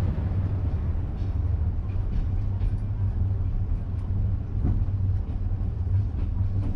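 Thai State Railway rapid sleeper train running along the line: a steady low rumble with faint scattered clicks.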